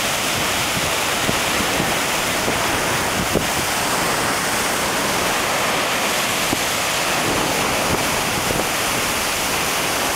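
Steady rushing of ocean surf mixed with wind on the microphone, with a few brief sharp ticks.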